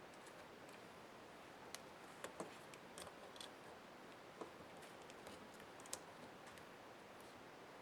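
Faint, scattered clicks and taps of small laptop parts and tools being handled during disassembly, a handful of sharp ticks over a quiet hiss.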